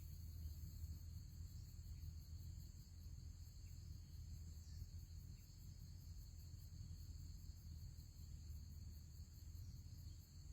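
Faint, steady, high-pitched drone of insects in the background over a low, even rumble.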